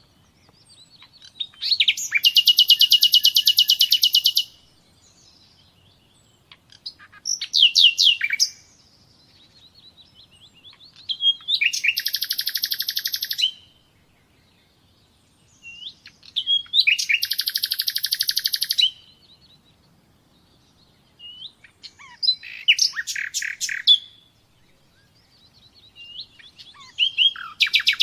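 A songbird singing: repeated phrases of very fast, high trilled notes, each lasting one to three seconds and coming about every four to five seconds, with short single chirps between the phrases.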